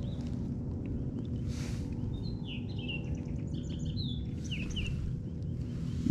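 Birds chirping in short falling notes, a cluster a little past the middle and a few more near the end, over a steady low background rumble.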